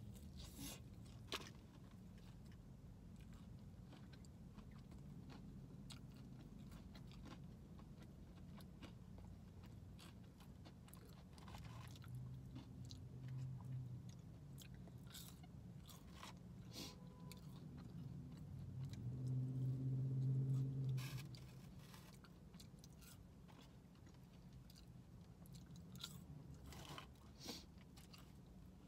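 Chewing and biting of fried chicken fingers and crinkle-cut fries, with many scattered short clicks of bites and chews. A low hummed 'mm' comes about halfway through, and a louder, longer one about two-thirds through.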